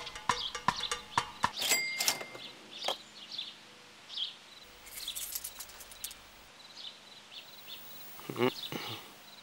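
Sparse, short, high bird chirps over a quiet background. A few sharp clicks come in the first two seconds, and a brief pitched sliding sound comes near the end.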